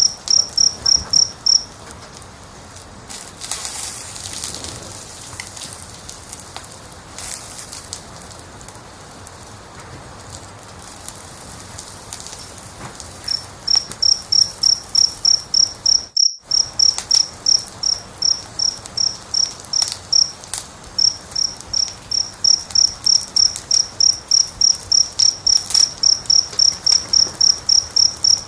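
A cricket chirping in a steady run of short, high chirps, several a second. The chirping stops about two seconds in and resumes about 13 seconds in. A wood fire crackles faintly underneath, and everything cuts out briefly about 16 seconds in.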